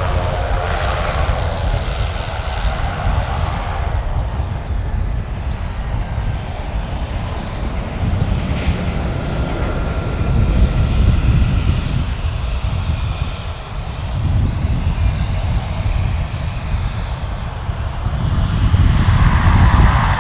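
Aircraft engines running: a continuous heavy low rumble with a faint high whine in the middle, growing louder near the end.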